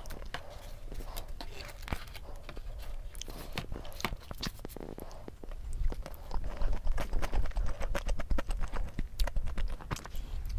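Close-miked eating of a bacon potato pizza: a slice bitten into about halfway through, then chewed with fast wet mouth clicks and smacks that grow louder and denser. Before the bite, light handling sounds as a hot sauce packet is shaken over the pizza.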